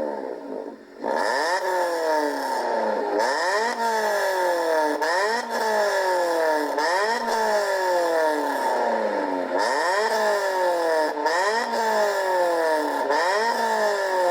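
VW Lupo 1.4 16V four-cylinder petrol engine blipped again and again through a sport exhaust. Its pitch climbs sharply and falls back about every second and a half, with a brief lull just under a second in.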